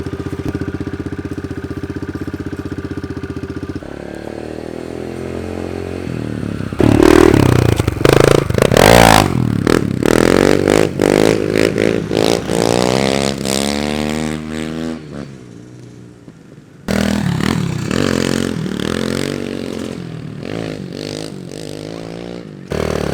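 Small pit-bike motorcycle engine idling, then revved hard and ridden, its pitch climbing and dropping repeatedly as the throttle is worked. It goes briefly quieter past the middle, then runs again.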